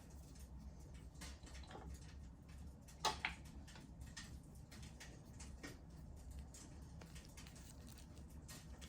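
Wood fire crackling in a fireplace: scattered small snaps of burning logs, with one louder pop about three seconds in.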